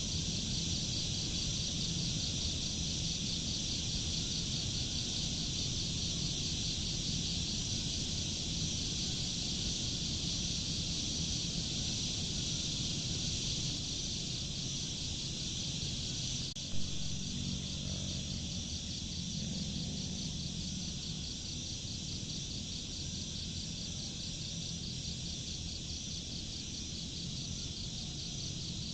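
Nature ambience of a steady, high-pitched insect chorus pulsing in a fast even rhythm, over a low steady rumble. A single sharp click about 17 seconds in.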